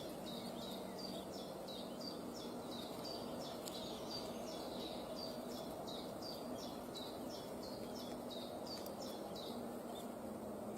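A bird calling in a steady, fast series of short high notes, about two to three a second, over a constant background hum.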